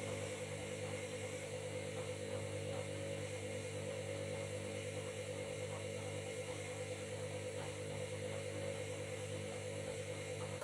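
Washing machine running with a steady motor whir and hum at a constant speed, cutting off suddenly at the very end.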